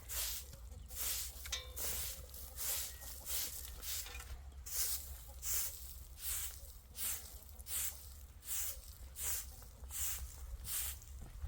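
Rhythmic rasping or scraping strokes, about one and a half a second, over a low steady hum.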